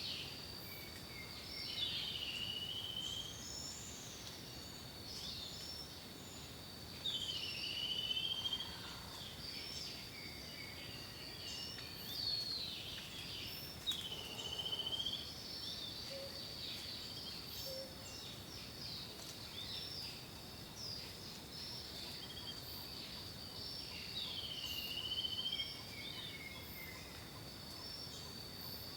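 Songbirds singing, one repeating a short phrase that dips down and swoops back up every few seconds, with scattered chirps from others, over a steady high-pitched tone.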